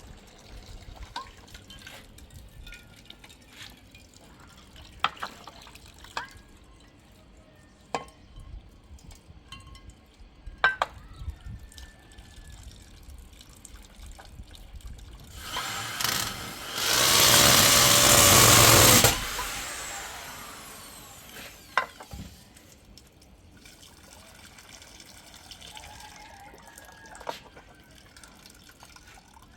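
Water dripping and splashing, with scattered knocks of handled objects, then a loud rush of pouring water lasting about three seconds, a little past halfway.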